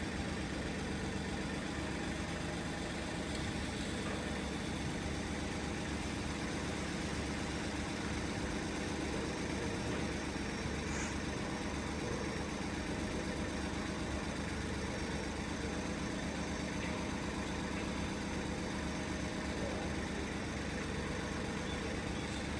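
1995 Rover 216 coupe's Honda-built four-cylinder engine idling steadily.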